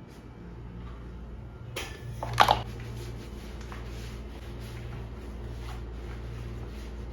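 A steady low hum with a sharp knock and clatter about two seconds in.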